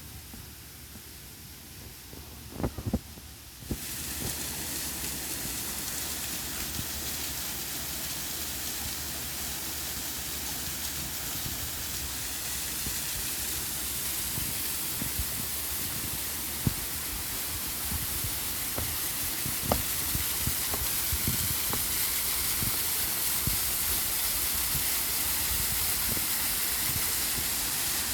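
A few clicks, then about four seconds in a steady rushing hiss starts suddenly and runs on, slowly growing a little louder, with scattered faint thumps.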